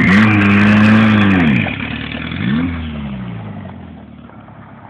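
Turbocharged 1955 VW Beetle's air-cooled flat-four engine revving hard, its pitch dropping about a second and a half in as it shifts, climbing again, then fading steadily as the car drives away.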